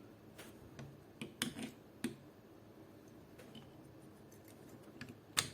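Scattered small clicks and knocks of parts being handled as a part is worked back into place in an airsoft AK rifle, at uneven intervals, with the sharpest click near the end.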